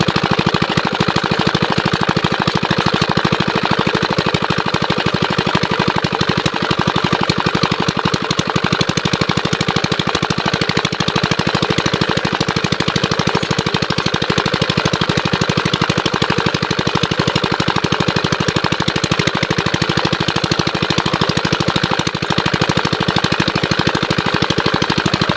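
Diesel engine of a water pump running steadily at full power, with a rapid, even firing beat.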